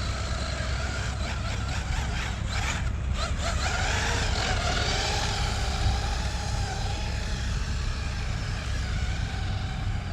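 An FSR Tank 6s RC monster truck's electric motor whining as it is driven, its pitch rising and falling with the throttle, over a steady low rumble.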